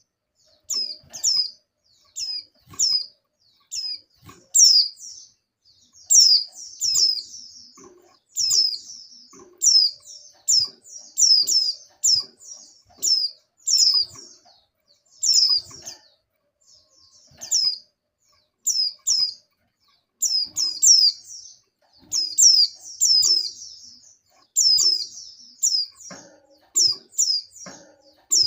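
Female white-eye (pleci) giving short, high, downward-sweeping chirps, singly and in quick runs of two or three, with brief pauses between: the call of a female in breeding condition calling for a male.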